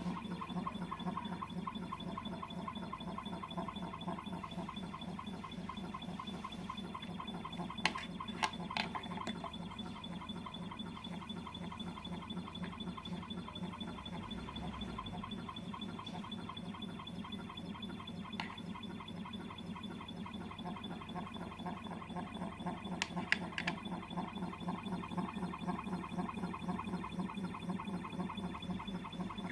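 Mini desktop CNC router (1810 Pro) running: a steady whine from its 795 DC spindle motor and stepper motors. A few brief sharp clicks come about eight seconds in and again after twenty-three seconds.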